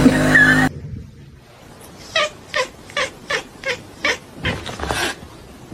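A loud sound with steady pitched tones cuts off abruptly under a second in. Then a cat gives about ten short, quick meows, roughly three a second, each dropping slightly in pitch.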